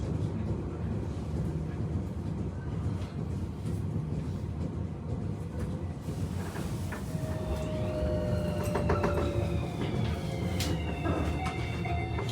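Tobu 30000 series electric train running, heard from inside the car: a steady rumble of wheels on track with occasional clicks. From about halfway, a whine from its Hitachi IGBT inverter comes in and slowly falls in pitch as the train slows.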